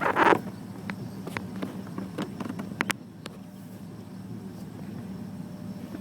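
Car running in slow traffic, heard from inside the cabin: a steady low engine hum and road noise, with a brief loud noise right at the start and a few light clicks in the first three seconds.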